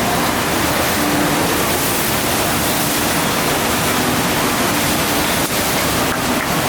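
Steady, loud rush of water pumped across a FlowRider sheet-wave ride surface.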